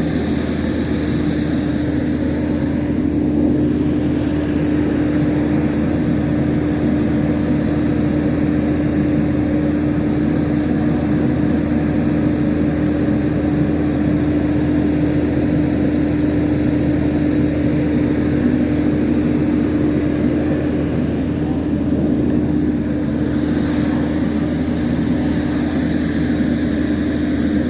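Diesel engine running steadily, with a strong steady hum.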